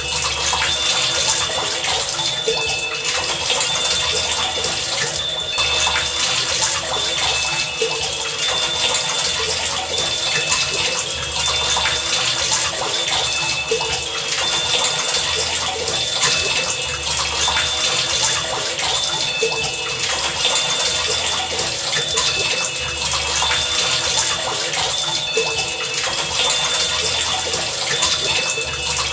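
Heavy rain pouring steadily, a dense unbroken hiss. Short high tones and low humming pulses recur through it every second or two.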